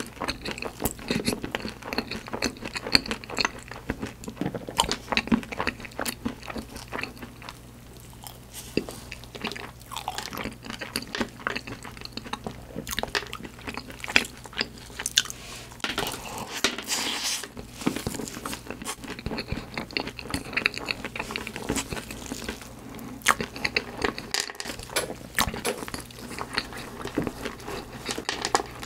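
Chewing and biting on profiteroles, choux puffs topped with white chocolate, chocolate chips and sliced almonds. They give many small, irregular crunches and wet mouth clicks.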